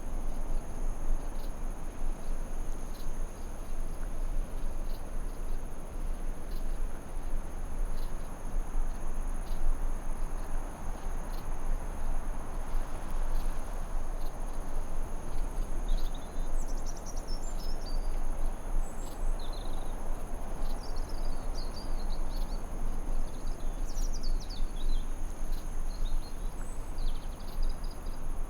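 Forest ambience track: a steady hiss with two unbroken high-pitched tones running through it. Short, quick bird chirps come in about halfway through and repeat on and off to the end.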